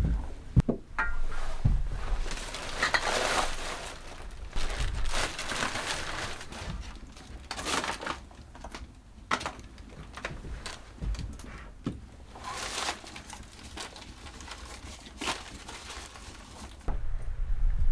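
Irregular rustling and crinkling with light clicks and knocks, the sound of things being handled close by, and a low wind rumble that comes in near the end.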